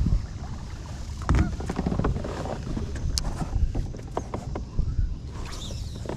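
Kayak on the water, with scattered knocks and clicks over a steady low rumble of wind on the microphone.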